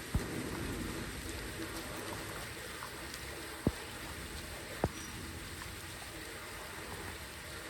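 Running water, a steady rushing flow, with three short sharp knocks, one near the start and two about a second apart in the middle.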